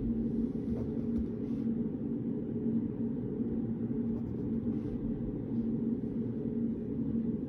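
Steady low hum of study-room background noise, with a faint steady tone in it, and a few faint light taps from someone studying at a desk.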